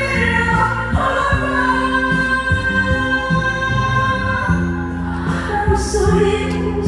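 A woman singing a song over band accompaniment, holding a long note for a few seconds after about a second in, with a steady rhythmic bass line underneath.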